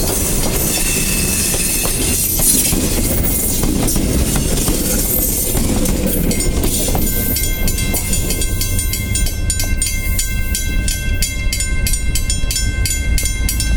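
Passenger train rolling past: steady wheel-and-rail rumble and clatter with some wheel squeal. About halfway through, several steady high ringing tones come in with a regular clicking beat.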